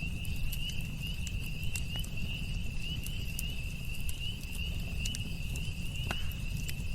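Campfire crackling with irregular sharp pops over a low steady rumble, one louder pop about six seconds in. Behind it a continuous high trill of night insects such as crickets.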